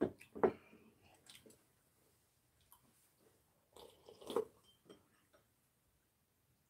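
People chewing and eating food, close-miked, in short scattered bursts with quiet gaps; the loudest mouthfuls come about half a second in and again about four seconds in.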